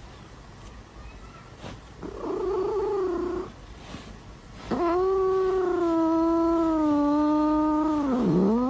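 Domestic cat yowling: a short drawn-out yowl about two seconds in, then a long held yowl of about four seconds that slowly sinks in pitch and drops off at its end.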